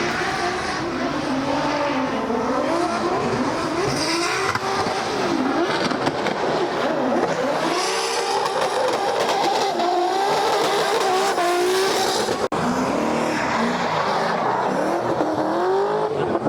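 Drift car engine revving up and down hard under a tyre squeal as it slides, with a brief break about twelve seconds in.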